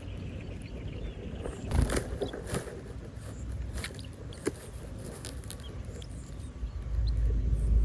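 Outdoor background noise with scattered rustles and clicks, then a low rumble that swells near the end.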